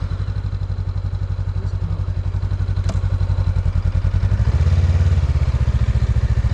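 Motorbike engine running at idle just after starting, a steady rapid low pulsing that grows louder about four and a half seconds in.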